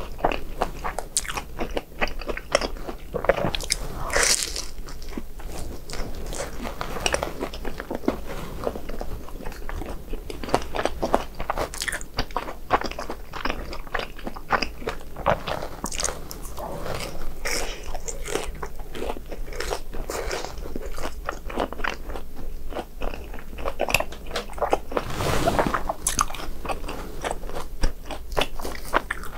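Close-up eating of crisp deep-fried BHC Bburing snacks, a hot dog or cheese balls in a seasoned fried coating: repeated crunchy bites and crackling chewing, with a few louder, fuller bites along the way.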